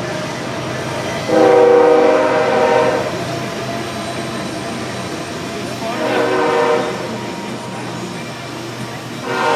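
A horn sounding in long held blasts over a steady rumble: one about a second in, a shorter one about six seconds in, and another starting near the end.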